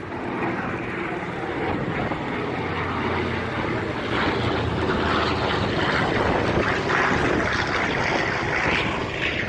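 WWII-era propeller aircraft flying past, its engine drone growing gradually louder.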